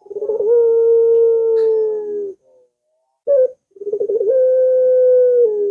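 Puter (Barbary dove) cooing: two long drawn-out coos, each opening with a brief waver and then held at one steady pitch for about two seconds, with a short clipped note between them. A lure call used to set other puter doves calling.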